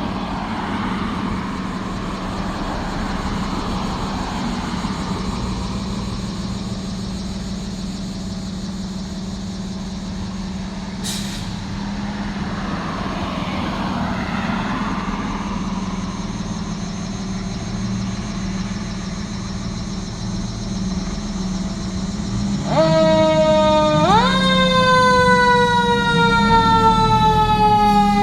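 Fire engine's engine running with a steady low drone, with one brief sharp sound about halfway through. About 23 seconds in its siren comes on loud, jumps up in pitch a second later, then slowly falls.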